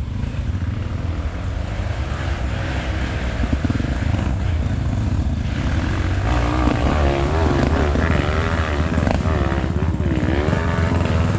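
Trail motorcycle engine running, with the revs swinging up and down repeatedly in the second half.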